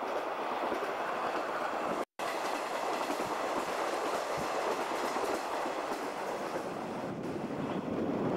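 Running noise of a JNR 50-series passenger coach on the move, heard at an open window: steady rush of wheels on rail and air, with a few faint clacks over rail joints. The sound cuts out completely for a split second about two seconds in.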